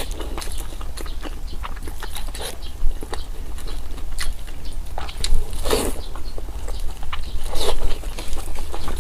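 Close-miked chewing and biting of food, with a steady run of small wet mouth clicks and smacks and a few louder bites.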